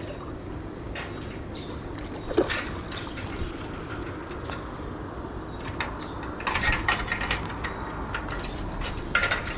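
Water splashing and dribbling in short irregular bursts, with the sharpest splash about two and a half seconds in and a busier patch of splashes a little later.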